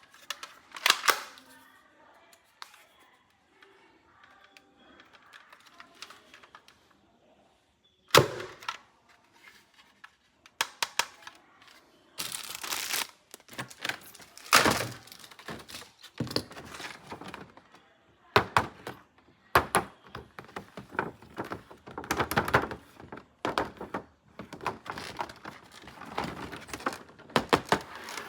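Plastic toys and their packaging being handled and unboxed: a long run of sharp clicks, knocks and snaps with some rustling, quieter for the first several seconds, then dense and loud from about eight seconds in.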